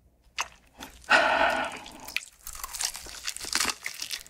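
Close-miked crunch of a bite into crispy fried chicken about a second in, followed by crackly chewing of the batter.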